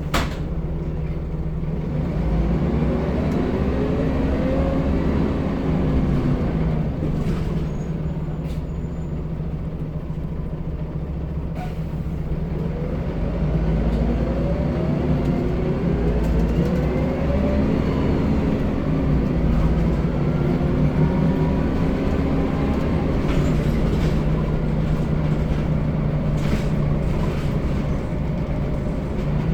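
Scania L94UB bus engine running under load as the bus accelerates, its pitch climbing and dropping back in several rising runs over a steady low drone, as the gearbox shifts up.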